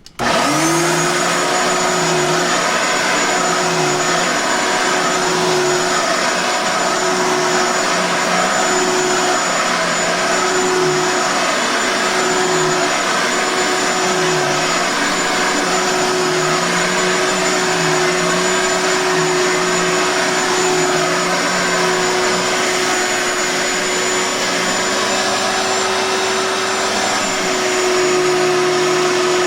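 Bissell Micro Lock 10.5-amp upright vacuum cleaner switching on and spinning up to speed within a moment, then running steadily with a high whine. Its lower hum wavers a little, and it gets slightly louder near the end.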